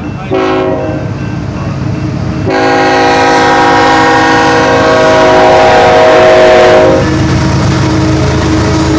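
Diesel locomotive air horn on a BNSF ET44C4 leading a passing freight train: a short blast, then a long blast of about four and a half seconds, over the steady low rumble of the locomotives.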